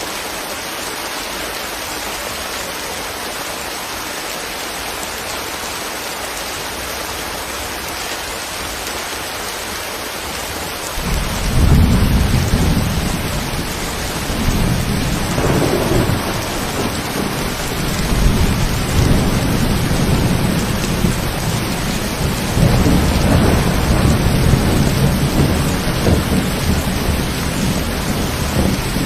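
Steady rain falling; about eleven seconds in, a loud low rumble of thunder begins and keeps rolling in waves.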